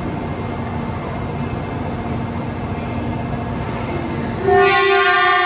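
923-series Doctor Yellow Shinkansen test train rolling slowly into the platform, a low steady rumble with a faint hum. About four and a half seconds in, a train horn starts suddenly and is held as one loud, steady tone.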